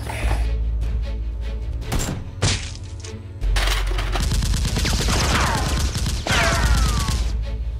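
Dubbed-in movie gunfire: a volley of rapid shots with deep booms over action background music. Falling whistling tones sound twice in the second half.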